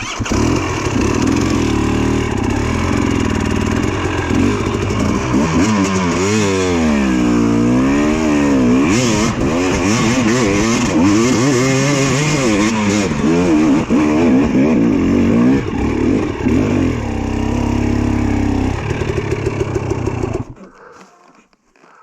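Two-stroke dirt bike engine revving hard on a steep hill climb, its pitch rising and falling again and again as the throttle is worked. The engine sound cuts off suddenly near the end.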